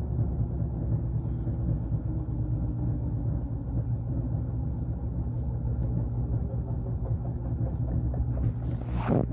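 Washing machine running: a steady low hum with a few motor tones. Near the end there is a brief rising whine.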